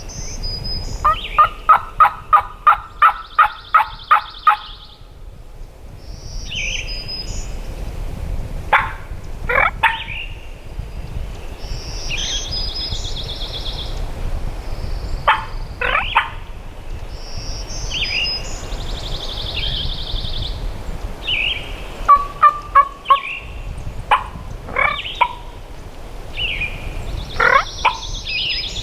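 Wild turkeys gobbling several times, with a run of about a dozen evenly spaced yelps in the first few seconds. Small birds sing repeated high phrases in between, over steady wind on the microphone.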